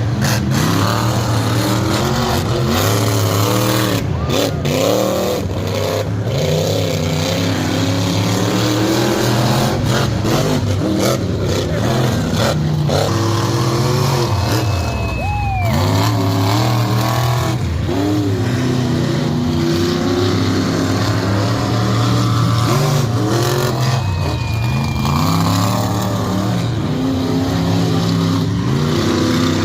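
Racing truck engines running loud and revving, their pitch rising and falling again and again.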